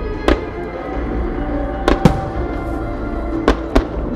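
Aerial firework shells bursting with sharp bangs: one just after the start, a close pair about two seconds in and another close pair about three and a half seconds in. Music plays steadily under them.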